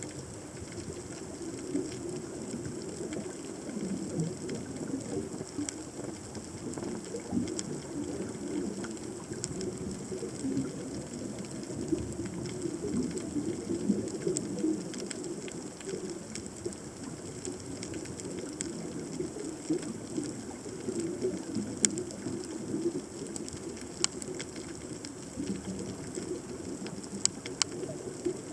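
Underwater ambience recorded by a submerged camera: a steady low burbling water noise with scattered sharp clicks, a few more of them near the end.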